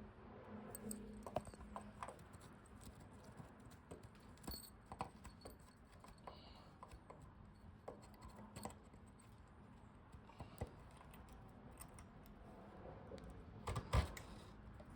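Faint scattered clicks, taps and light scraping from handling a steel bolt fed down from the top through a drilled hole in a wooden joist, with a louder knock near the end.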